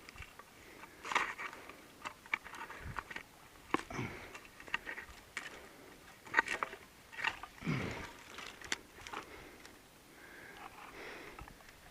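A man's breathing and sniffing close to a chest-mounted microphone, with scattered crunching footsteps and small knocks of a walk over rough ground.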